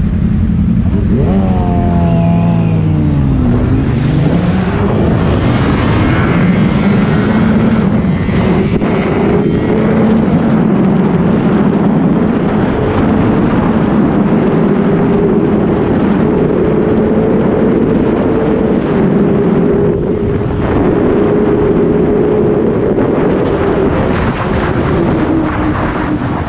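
Sport motorcycle engine running hard: its pitch falls and then climbs again in the first few seconds, holds steady at high revs for most of the time, and drops away near the end.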